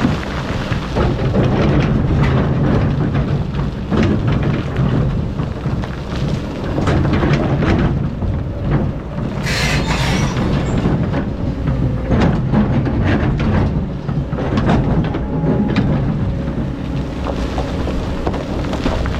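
Excavator's diesel engine running steadily under load with a low rumble, over scattered knocks and scraping as it digs sand, and a short hiss about halfway through.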